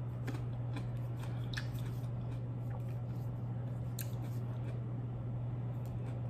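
Close-up mouth sounds of a person chewing a seedless green grape with the mouth closed: soft wet squishes and scattered small clicks, one sharper click about four seconds in. A steady low electrical hum runs underneath.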